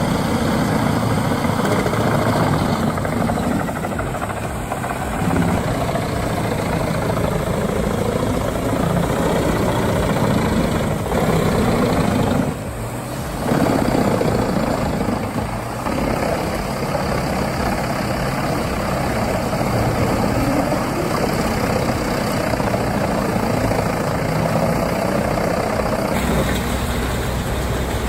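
Heavy machine engine running steadily under load, with a brief drop in level about halfway through.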